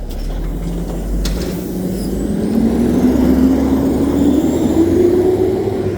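Garbage truck's diesel engine running with a low rumble, its pitch rising steadily from about two seconds in as the engine speeds up.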